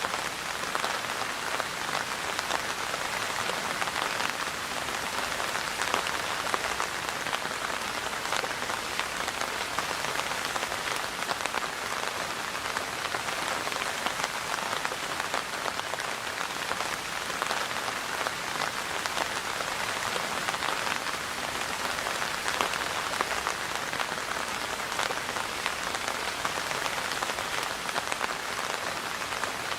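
Steady rain falling, a dense even patter of drops without letup.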